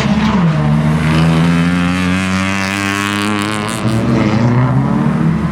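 Front-wheel-drive rally car engine held at high revs as the car passes at speed; the pitch drops a little about half a second in, then holds steady.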